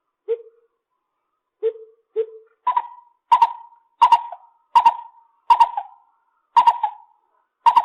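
Lesser coucal calling: three low hoots, then a series of seven louder, higher notes at roughly one every three-quarters of a second, each trailing off briefly.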